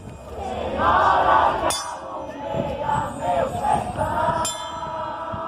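A crowd of many voices shouting and cheering together, loudest about a second in, with two sharp knocks cutting through, one near the middle and one near the end.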